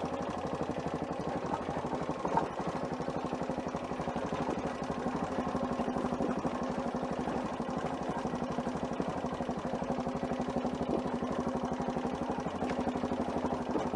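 Adventure motorcycle engine running steadily at low speed, its firing pulses even and unchanging.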